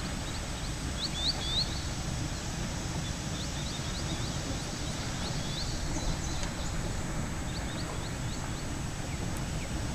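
A small bird calling in runs of short, quick, high chirps, pausing between runs, over a steady low rumble.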